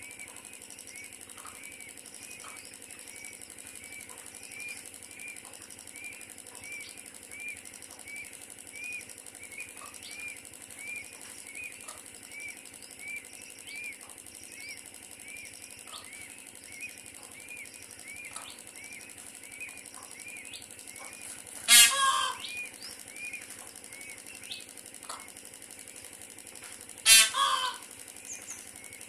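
Birds calling: a short chirp repeated about twice a second over a steady high hiss, interrupted twice by a loud, harsh bird call about twenty-two and twenty-seven seconds in.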